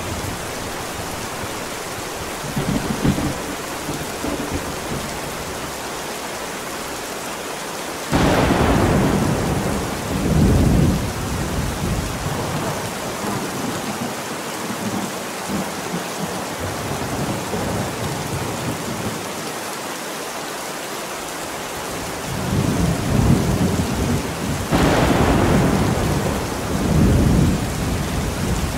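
Steady heavy rain with thunder. Two sharp cracks, one about eight seconds in and one near the end, each roll off into low rumbling, with softer rumbles in between.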